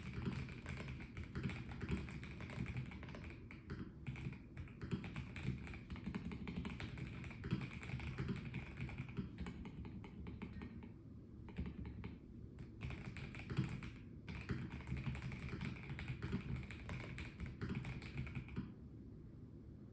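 Rapid typing on a Melgeek Mojo84 Plastic mechanical keyboard, a dense run of key clicks with a couple of brief pauses, stopping shortly before the end.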